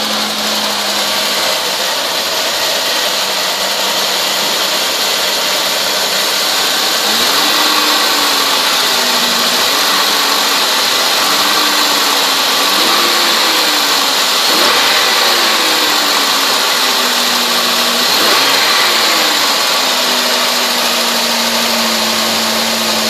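2004 Oldsmobile Alero engine running, first at a steady idle, then with its speed raised and let fall several times from about seven seconds in, before settling back to idle near the end.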